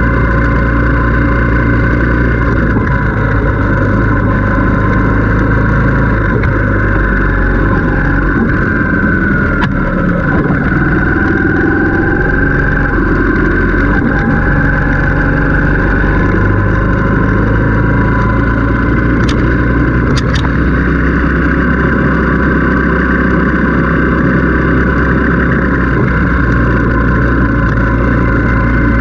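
Motorcycle engine running steadily while riding, its pitch rising and falling a little about ten seconds in as the revs change, with a couple of brief clicks about two-thirds of the way through.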